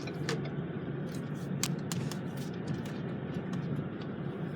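Steady low road and engine noise inside a moving car's cabin, with a few faint light clicks.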